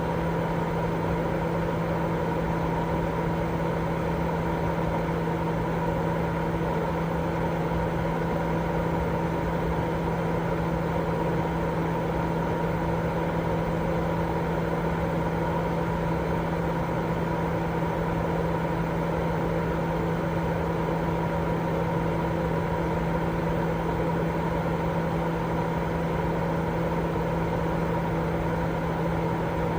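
Continuous white noise for baby sleep: an even, unchanging rush, fuller in the low and middle range than in the highs, with a steady low hum under it.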